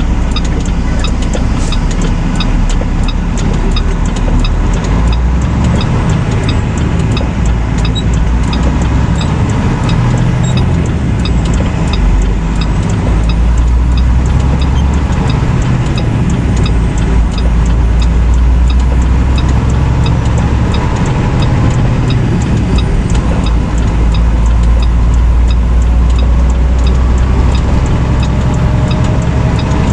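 Semi-truck cab noise while driving: a steady, loud low rumble of engine and road, with faint, evenly spaced ticks throughout.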